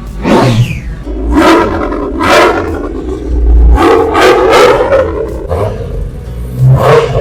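Superbike engine with an Akrapovič exhaust revved in a string of sharp blips, each falling away in pitch.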